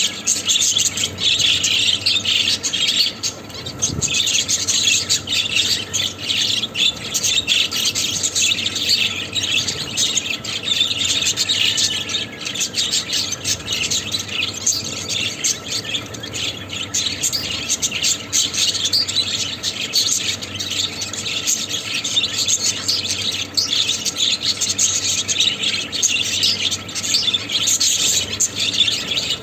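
Budgerigars chattering and warbling without a break, a dense stream of quick high chirps and short squawks.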